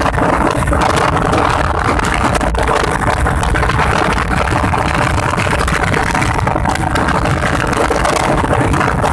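Motorcycle engine running steadily at speed during a race, under a loud, steady rush of noise.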